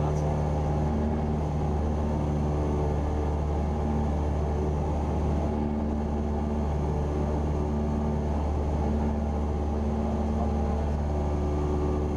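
Cessna 172R Skyhawk's four-cylinder Lycoming piston engine and propeller droning steadily in level flight, heard from inside the cockpit.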